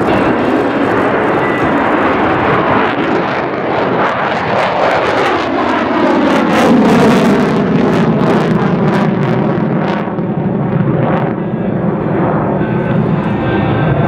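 F-35B Lightning II's single F135 jet engine at full afterburner on its takeoff run: loud, steady jet noise with crackling through the middle seconds, and a falling sweep in pitch from about four seconds in as the jet passes.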